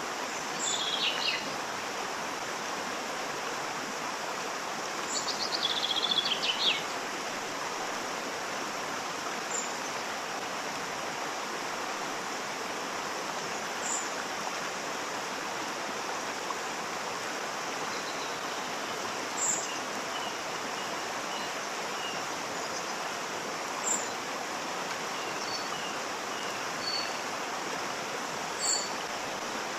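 Waterfall: a steady rush of falling water, with birds calling over it. A short high chirp comes about every four to five seconds, two louder trills come in the first seven seconds, and softer short notes follow later.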